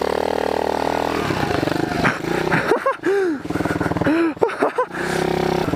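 Pit bike engine running under the rider, steady at first, then revved up and back down a few times in quick blips in the middle before settling again.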